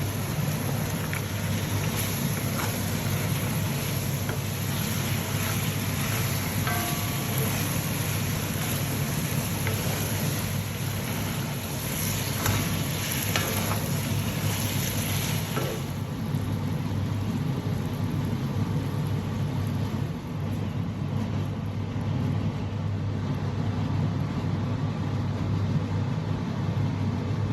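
Hot oil sizzling in a pan as ingredients are stir-fried, with occasional light clicks of the utensil, over a steady low hum. About halfway through the high sizzle softens.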